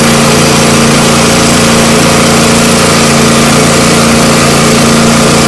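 Engine-driven mobile high-pressure unit running steadily, a constant hum with an even hiss over it.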